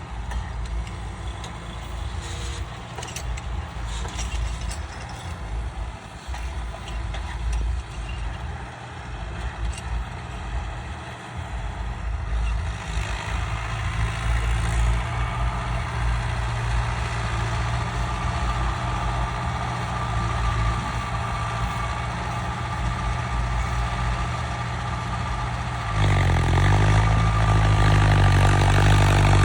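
Tractor engine running steadily while ploughing, growing louder about 26 seconds in as the engine note shifts in pitch.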